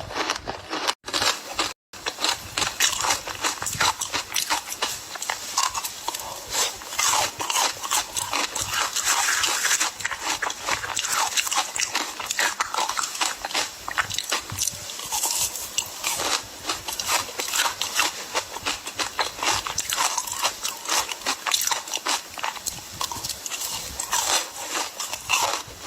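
Ice being bitten and chewed close to the microphone: a dense run of rapid crunches and cracks that goes on throughout, with two brief cut-outs in the sound near the start.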